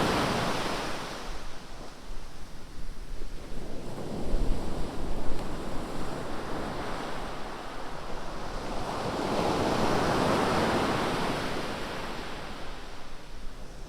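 Ocean surf: a wave washing in fades out in the first second or so, and another builds and breaks around nine to twelve seconds in. Between them, wind gusts rumble on the microphone.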